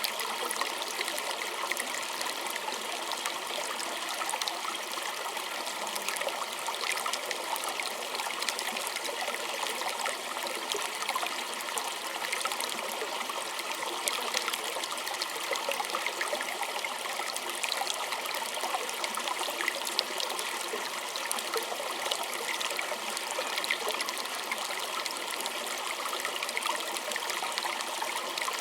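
A small stream trickling and splashing steadily over stones, an even bubbling with no change.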